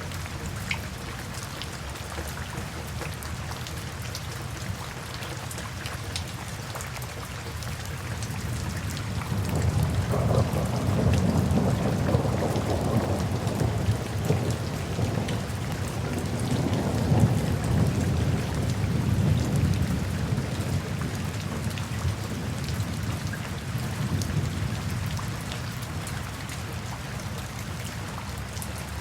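Steady rain falling, with a long low roll of thunder that swells about nine seconds in, is loudest for several seconds, and fades back into the rain by about twenty-two seconds.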